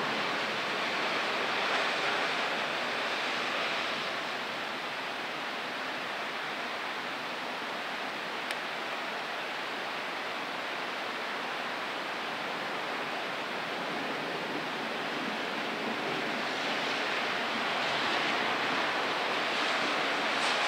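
Steady hiss of thunderstorm rain, easing slightly in the middle and swelling louder again near the end, with one brief click about eight seconds in.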